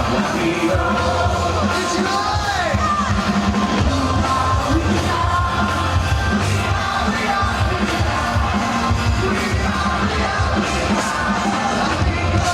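Live rock music played loud over a stadium PA, with singing and a crowd yelling along.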